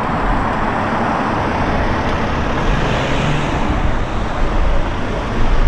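Road traffic noise: motor vehicles running along a street, a steady loud rush with a low rumble that swells briefly mid-way.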